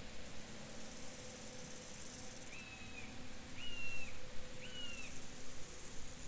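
A bird gives three short whistled calls about a second apart, each a brief steady note that bends at its start and end, over a steady background hiss of open-field ambience.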